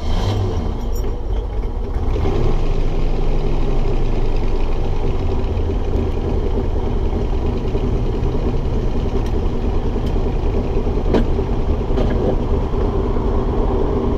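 A 1960 Corvette's 283 cubic inch V8 firing up, rising briefly in revs, then settling into a steady idle. A sharp click sounds about eleven seconds in.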